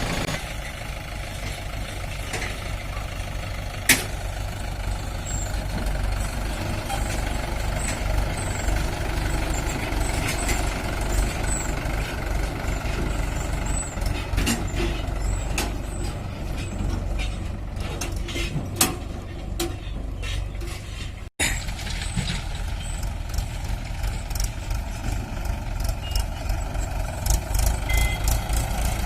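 Heavy diesel engine running steadily, with a sharp knock about four seconds in and scattered light clicks and rattles. The sound briefly cuts out about two-thirds of the way through.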